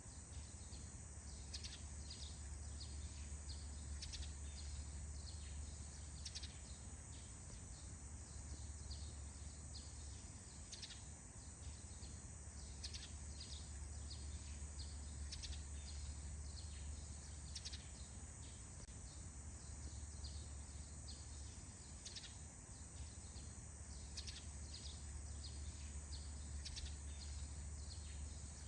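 Birds chirping in quick short calls that repeat throughout, over a steady low rumble and a faint steady high hiss.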